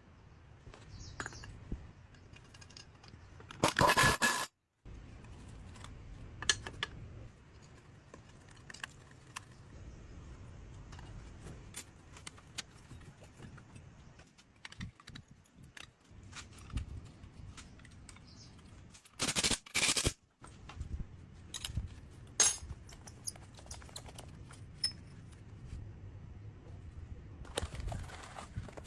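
Metal parts and tools being handled: scattered clinks, taps and scrapes, with two short loud rushing bursts, about 4 s and 20 s in.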